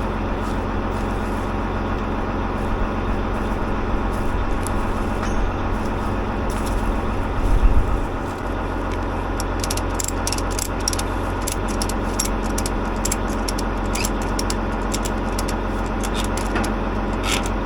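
Tractor engine idling steadily. From about six seconds in there are scattered sharp metallic clicks and clanks, with one louder low thump about seven and a half seconds in.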